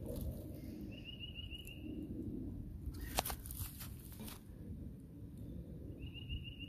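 Quiet outdoor ambience: a bird gives a short, high, rapid trill about a second in and again near the end, over a faint rustle, with a sharp click about three seconds in.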